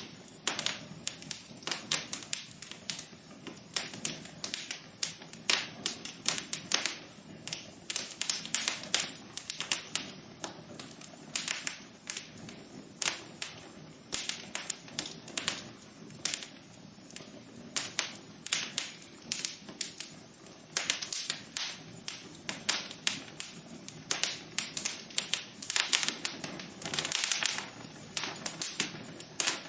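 Wood fire burning in a fireplace, crackling with dense, irregular sharp pops and snaps over a low steady hiss.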